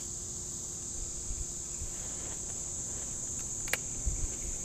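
A steady, high-pitched chorus of insects, crickets or similar, shrilling without a break. A single sharp click comes about three-quarters of the way through, with a little low rumbling after it.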